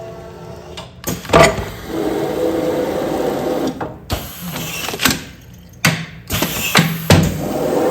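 Automatic container-sealing machine cycling through a sealing run: sharp mechanical clunks at uneven intervals, with stretches of steady whirring between them.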